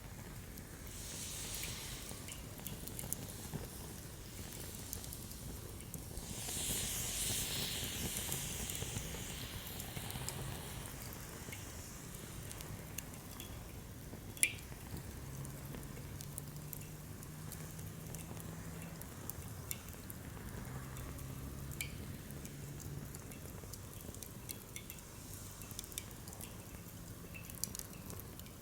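Wood campfire crackling with scattered sharp pops, one louder snap about halfway through, and a swell of hissing about seven seconds in that fades over a few seconds.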